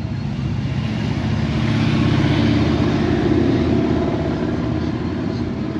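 A motor vehicle's engine running, growing louder over the first two seconds or so, then easing off toward the end.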